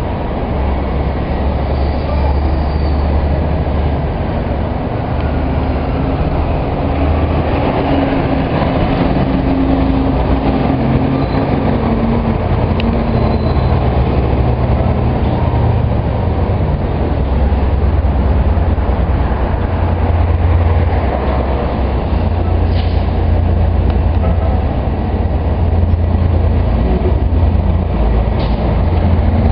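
2004 Orion VII transit bus running with a steady, heavy low rumble and a faint humming tone in the middle stretch, the odd noise this bus is known for.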